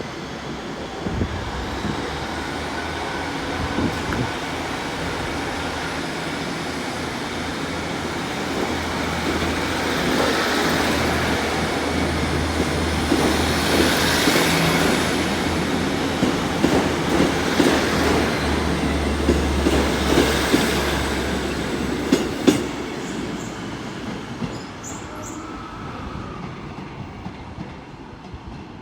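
GWR diesel multiple unit pulling out of the station. Its engine hum builds up, the wheels click over the rail joints, and then the sound fades as the train draws away.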